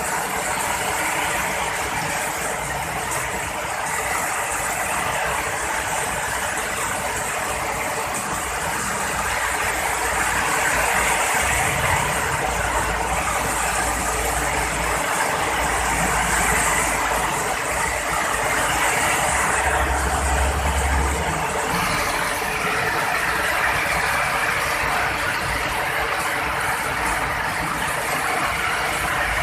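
Heavy rain falling steadily, with low rumbles of thunder in the middle.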